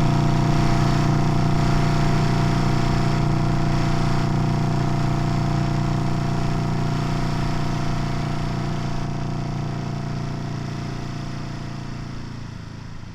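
Engine of a vintage Honda CB parallel-twin motorcycle running at a steady, unchanging speed, slowly fading away towards the end.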